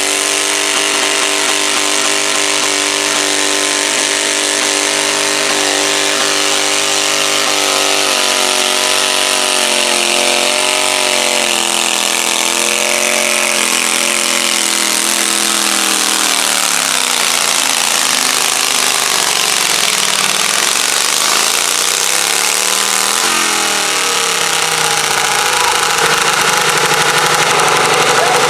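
Garden tractor pulling engine running hard at high revs. Past the middle its pitch falls away and climbs back up, as the revs drop and recover.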